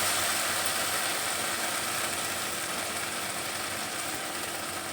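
Spice masala of onion and tomato frying in a pan, giving a steady sizzle that slowly gets quieter, over a low steady hum.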